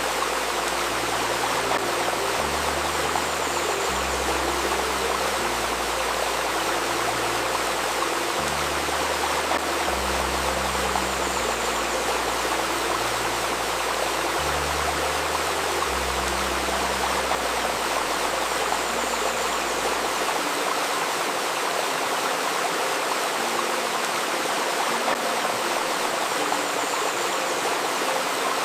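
A river stream running steadily over stones, with soft, low sustained music notes underneath that change every second or two and stop about two-thirds of the way through.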